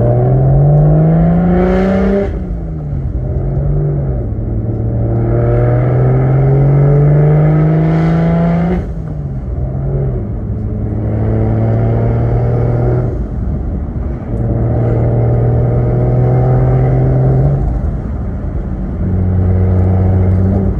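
BMW 335i's single-turbo straight-six pulling hard through the gears: the engine note climbs, drops at a shift about two seconds in, climbs again for about six seconds, and drops at a second shift near nine seconds. It then holds a steady cruising pitch, dipping briefly a couple of times.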